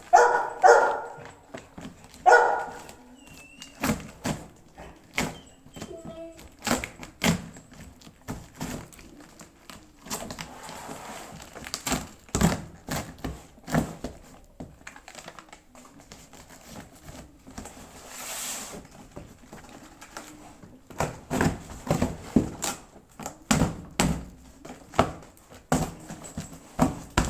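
Irregular knocks, clicks and rustles of things being handled roughly, with a few short pitched calls near the start.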